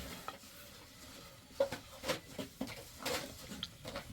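A few scattered soft knocks and clicks, light handling sounds.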